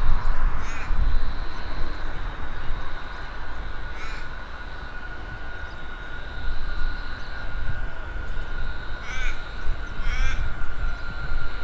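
A crow cawing four times, short single calls spaced a few seconds apart, over a low rumble and a faint steady high whine.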